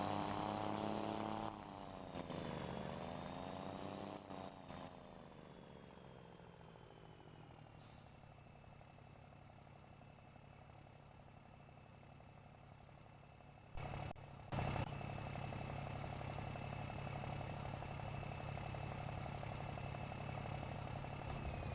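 Scania Super 540 truck engine through a straight-through exhaust, its pitch dipping and rising a few times before settling into a quieter steady run. A couple of short loud bursts come about two thirds of the way in, and then the engine runs steadily and louder again.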